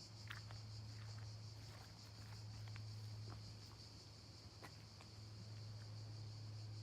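Faint outdoor ambience: a steady high buzzing of insects, over a steady low hum, with a few soft scattered ticks.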